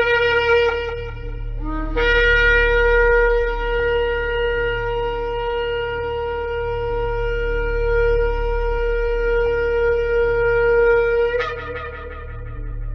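Shofar (ram's horn) blasts: a short note that stops about a second in, then a brief upward slide into a long, steady held blast of about nine seconds that ends in a sharp upward break in pitch. A low steady hum runs underneath.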